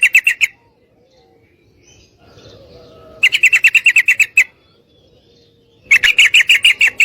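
Yellow-vented bulbul (trucukan) giving three bursts of rapid, evenly spaced chattering notes, about ten a second, with short pauses between bursts. The call is presented as a female calling for a male.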